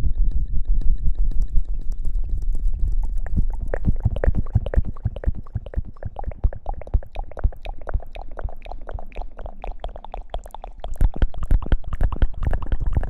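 Close-miked ASMR scrubbing and rubbing on the microphone: a dense run of rapid crackles and small clicks over a low rumble, easing off for a few seconds and picking up again about eleven seconds in.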